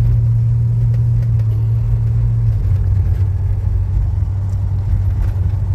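Custom 1993 Toyota pickup's engine and exhaust droning steadily while the truck is driven, heard from inside the cab; the drone drops slightly in pitch about two and a half seconds in.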